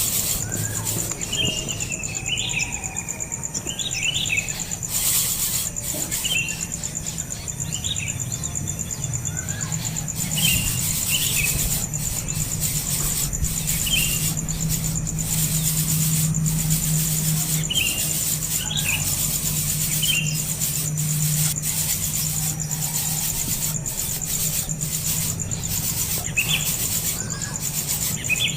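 Short bird chirps, repeated every second or two, over a steady high-pitched insect drone, with a few scattered clicks.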